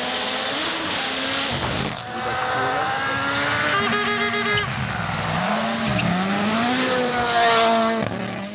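Rally car engines at full speed on a gravel stage, the engine note climbing and then dropping sharply with each gear change. Several short clips are cut together, and the loudest moment comes near the end.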